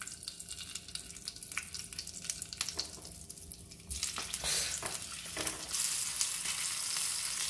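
Stuffed green chillies sizzling as they go into hot oil in a frying pan, with a few light clicks. About four seconds in, the sizzle becomes much louder and fuller as the pan fills with chillies.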